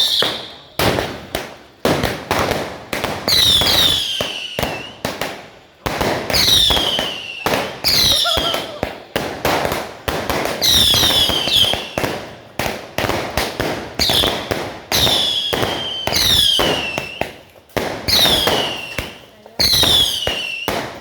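Home fireworks going off: a rapid string of sharp bangs, with about a dozen high whistles that fall in pitch rising over the bangs every second or two.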